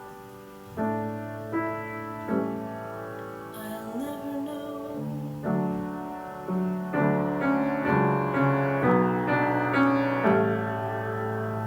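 Piano music: a slow passage of struck chords and melody notes, growing louder about seven seconds in.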